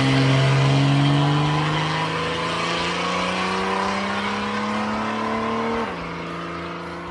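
A 1983 Holden VH Commodore with automatic transmission accelerating away, its engine note rising steadily in pitch and fading with distance. About six seconds in the pitch drops suddenly as the gearbox shifts up.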